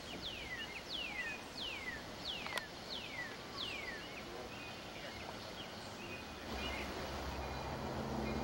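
A bird singing a run of about six clear whistles, each sliding down in pitch, roughly one and a half a second, for the first four seconds. About six and a half seconds in, the low rumble of an approaching diesel locomotive's engine comes in and grows.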